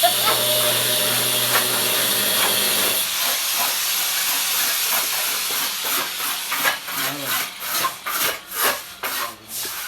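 Construction-site work noise: a steady hiss with a faint motor hum for about three seconds, then repeated scraping or rubbing strokes, about two to three a second.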